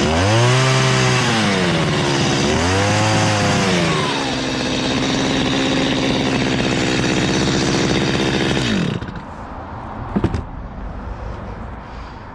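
Chainsaw hollowing out a log, its engine revved up and down twice and then held at a steady speed. About nine seconds in, the engine winds down and stops, leaving quieter scraping on wood and a couple of knocks.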